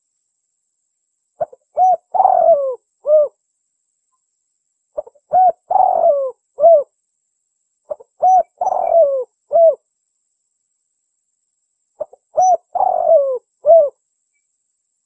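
Spotted dove (tekukur) cooing its song four times, about every three and a half seconds: each phrase is a short coo, a longer falling coo, and a short closing coo.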